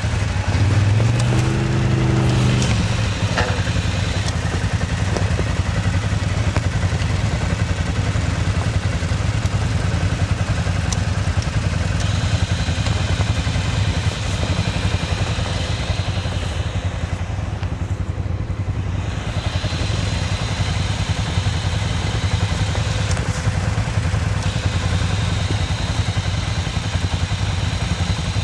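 ATV engine running, revving up briefly near the start and then running steadily at low revs.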